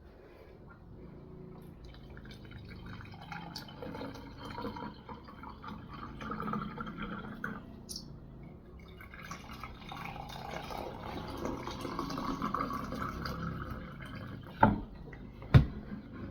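Liquid being poured into a container in two long pours, followed by a few sharp knocks near the end.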